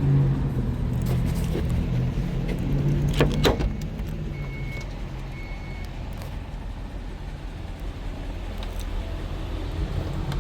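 Dodge Durango's 5.7 Hemi V8 idling with a steady low drone, louder for the first few seconds. A few sharp clicks come about three seconds in, followed by two short high electronic beeps.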